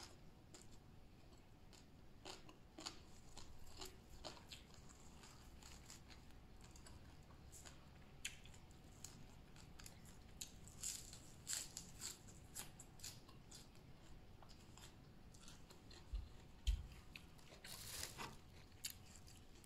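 A person eating crunchy raw vegetables and green papaya salad: a run of soft, crisp crunches and chewing clicks, thickest about halfway through. A couple of dull low thumps come near the end.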